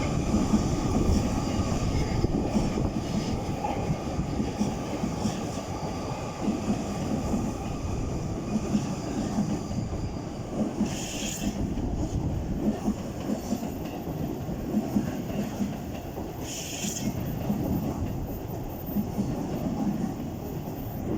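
JR East E257 series electric multiple unit passing: a steady rumble of wheels on rail with clickety-clack from the rail joints. There are two brief high-pitched squeals, about 11 seconds in and again near 17 seconds.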